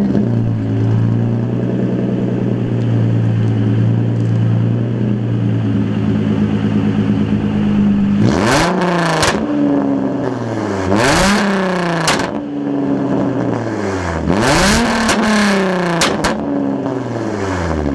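Nissan 350Z's 3.5-litre V6 running at steady revs, then revved three times about three seconds apart, each rev climbing sharply and sinking back slowly.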